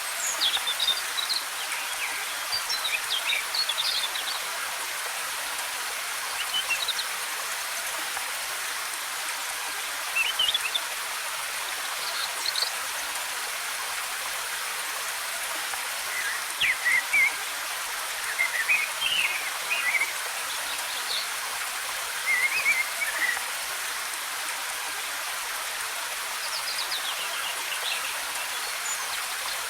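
Steady, hissing rush of a waterfall, with small birds chirping in quick, short phrases every few seconds over it.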